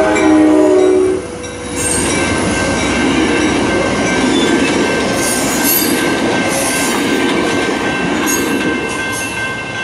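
Coaster commuter train's horn chord ending about a second in, then the train's bi-level passenger coaches passing at speed, steel wheels on rail with several brief high wheel squeals.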